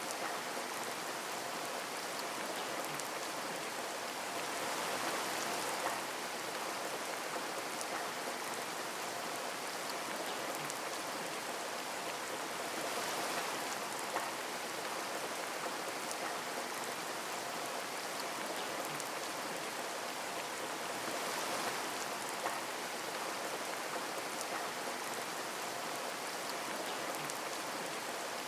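Steady hiss of water with scattered small drip ticks, swelling gently about every eight seconds.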